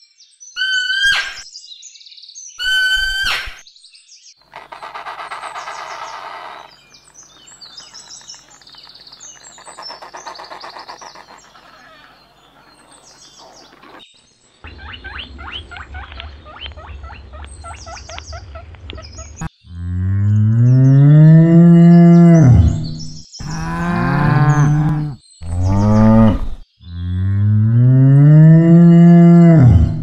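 Short high calls and a quieter stretch of chirping, then a black-and-white dairy cow mooing four times, long low calls that rise and fall away in pitch. The moos are the loudest sound.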